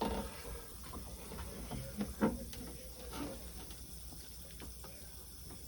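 Faint scattered clicks and light scraping of a pipe cutter being worked on thin-walled half-inch pipe, which is crushing rather than cutting, with a couple of slightly louder clicks about two seconds in.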